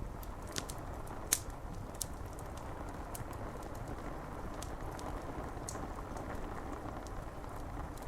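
Steady rain on window glass with a wood fire crackling: a few sharp pops, the loudest just over a second in.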